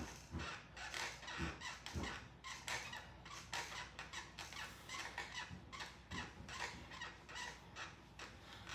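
Stationary exercise bike squeaking or clicking in a quick, even rhythm of about three a second as it is pedalled.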